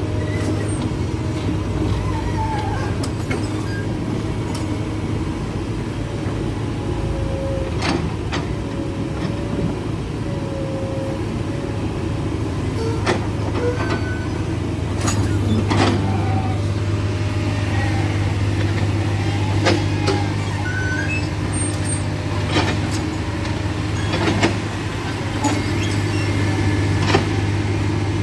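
Heavy diesel engine running steadily at a low hum, with scattered sharp knocks.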